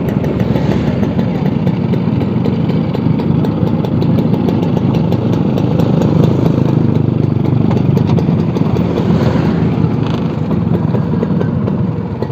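Old Vespa scooter's engine running steadily and loudly, without letting up.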